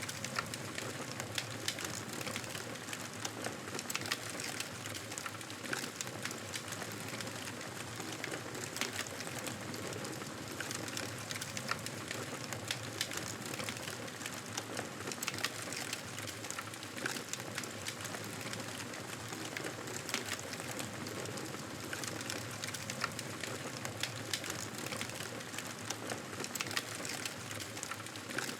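Campfire burning with a steady crackle and frequent sharp pops at irregular intervals.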